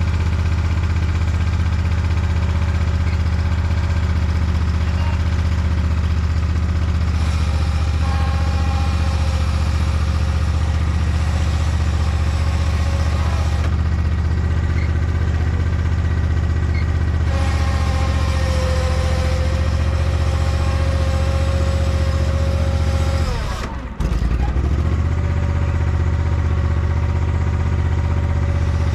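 Garden tractor engine running steadily under load as it tows a chicken tractor. Near the end it dips sharply for a moment, then picks back up.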